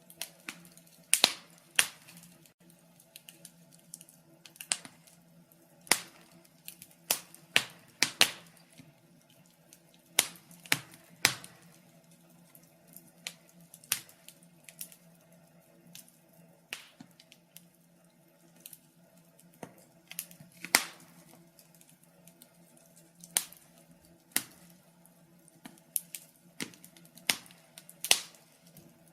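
Fire crackling: irregular sharp pops and snaps, scattered unevenly with some much louder than others, over a faint steady low hum.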